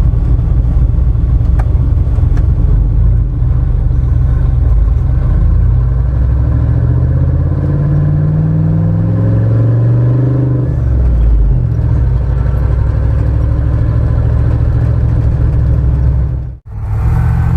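Vehicle engine running while driving, rising in pitch as it revs up about seven seconds in and dropping back a few seconds later, with a brief dropout near the end.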